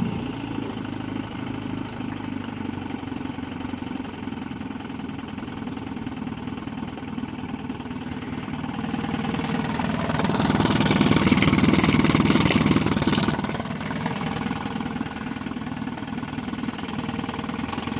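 1958 Johnson CD-15 5.5 hp two-stroke outboard motor idling steadily and quietly. About nine seconds in it swells louder for a few seconds, then settles back to idle.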